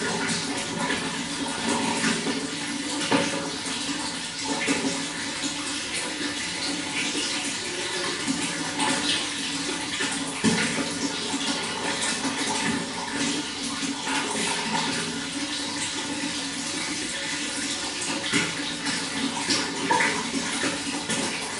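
Running water flowing and splashing steadily, a continuous wash of noise with many small splashes.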